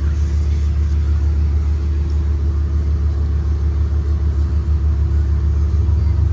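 Blue Bird Vision school bus heard while riding: a steady low drone of the bus running along the road, with an even hum and no clear revving.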